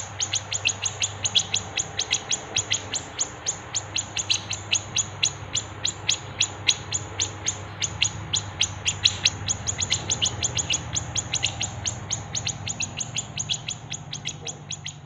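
Songbird chirping rapidly and steadily, about five short, sharp chirps a second.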